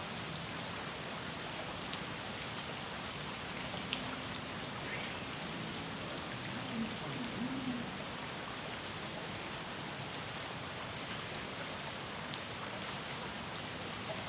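Steady rain falling on a pond, an even hiss with a few sharper single drops standing out.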